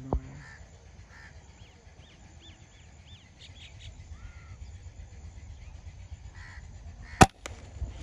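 Small birds chirping in a quick series of short arched calls, over a low outdoor rumble. A single sharp crack sounds near the end.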